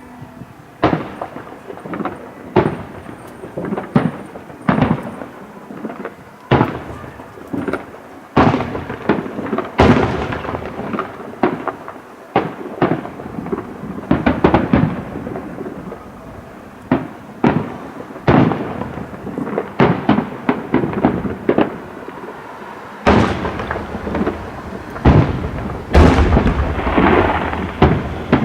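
Fireworks display: aerial shells bursting one after another, each bang followed by a rolling echo. Near the end the bursts come thick and fast, overlapping into a continuous barrage.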